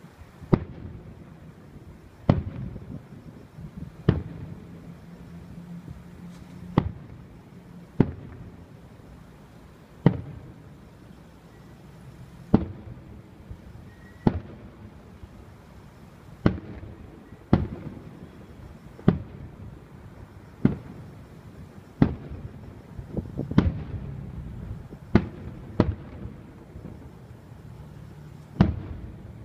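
Aerial fireworks shells bursting one after another, a sharp boom every one to two seconds, each trailing off before the next.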